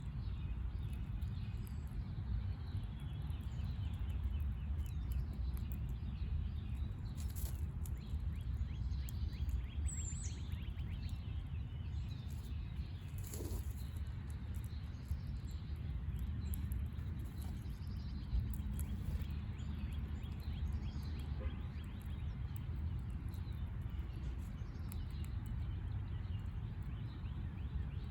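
Small birds chirping faintly and now and then over a steady low rumble, with one brief high chirp about ten seconds in.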